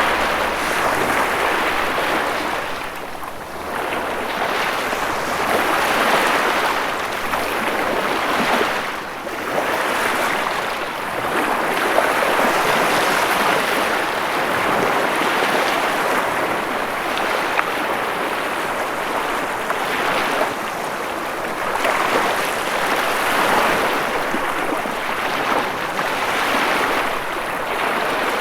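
Ocean surf: a continuous rushing hiss of breaking and washing waves that swells and eases every few seconds, dipping briefly twice in the first ten seconds.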